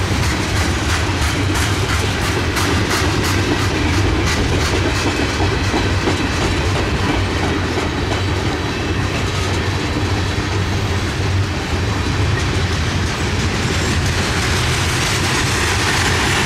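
Loaded freight train's tank cars and covered hoppers rolling past at speed, a steady rumble with the wheels clicking over rail joints, most clearly in the first few seconds.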